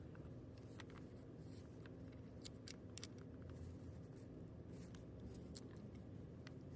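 Faint scattered small clicks and taps from hands handling a small plastic key fob, over a steady low hum.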